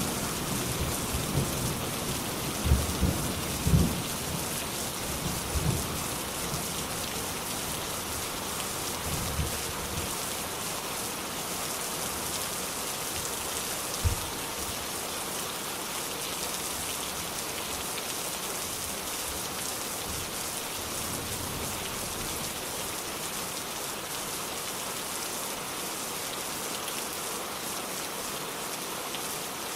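Steady rain falling, with low rolls of thunder dying away over roughly the first ten seconds and one short low thump about fourteen seconds in.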